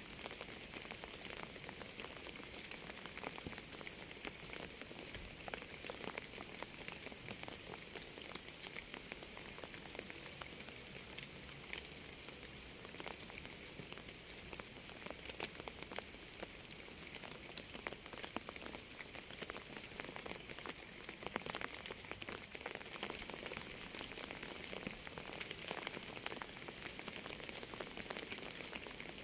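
Steady rainfall: an even hiss strongest in the high range, with many separate raindrop impacts ticking through it.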